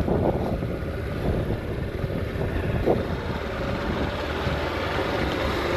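Motorcycle riding along a rough road: a steady rumble of engine and road noise, with wind on the microphone.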